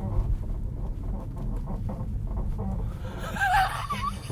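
Tesla Model 3's front lower control arms squealing while driving: a wavering high squeak lasting about a second, starting about three seconds in, over steady low road rumble inside the cabin. The squeal is the known Model 3/Y control-arm fault.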